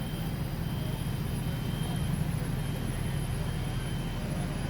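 Steady low engine drone from an idling vehicle, even throughout with no changes.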